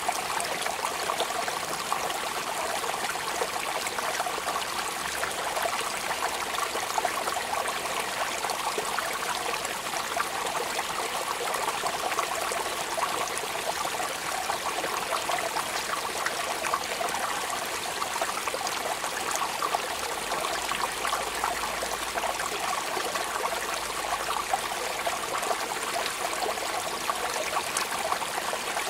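Steady rain: an even hiss of falling water, dense with many small drop ticks, unchanging throughout.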